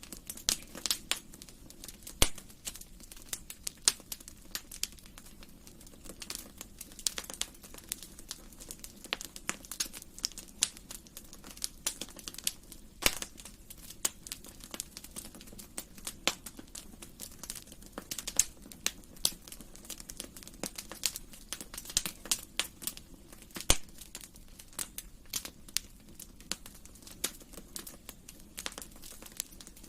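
Wood fire crackling in a fireplace: irregular snaps and pops, a few of them louder, over a low steady hum.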